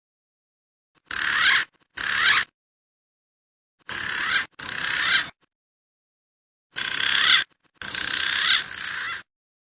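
Recorded calls of a green pigeon (punai) played back as a bird-trapping lure: six short bursts of wavering whistled notes in three pairs, each swelling louder toward its end, with dead silence between them.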